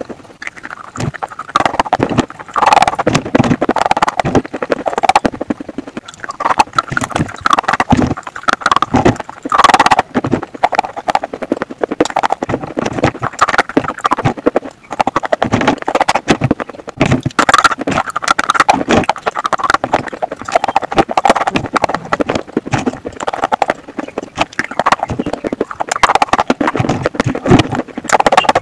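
Slate pencils being bitten and chewed: a loud, dense run of crisp crunches that goes on throughout.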